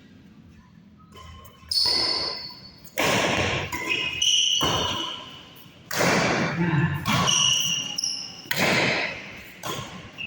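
Badminton rally in an echoing sports hall: about six hard racket strikes on the shuttlecock, roughly one every second or so, with shoes squeaking on the court between shots.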